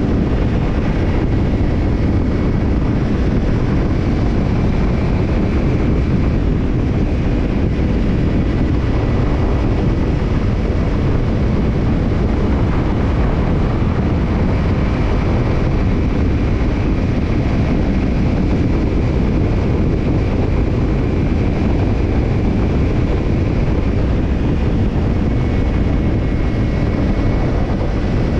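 Kawasaki Ninja 250's parallel-twin engine running through a BEET NASSERT Evolution Type II titanium slip-on muffler, holding a steady pace with a deep rumble, mixed with wind noise on the microphone.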